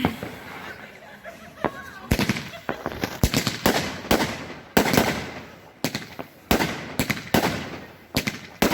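Celtic Fireworks consumer fireworks going off: after a quieter first two seconds, a rapid, irregular string of sharp bangs, often two or three a second, each with a brief crackle after it.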